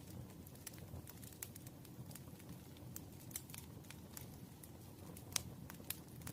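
Campfire crackling: a low steady rush with irregular sharp pops and snaps, one louder pop about five seconds in.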